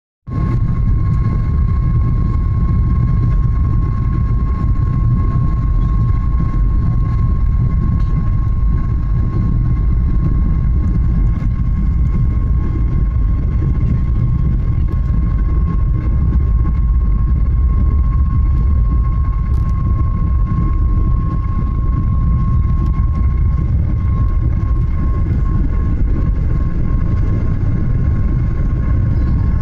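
Boeing 737's jet engines at takeoff power: a loud, steady deep rumble with a constant high whine over it.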